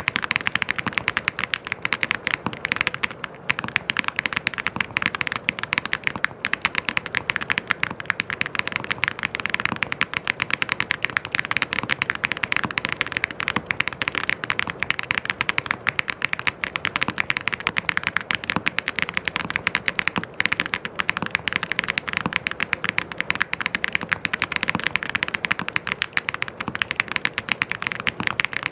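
Mechanical keyboard typed on rapidly and without pause, a dense run of sharp key clicks and clacks.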